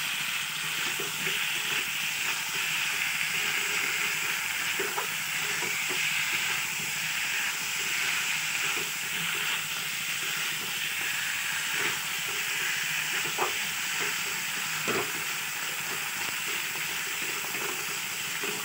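Mutton and fried potatoes sizzling in oil and masala in a metal kadai while being stirred, with a few short scrapes and knocks of the spoon against the pan.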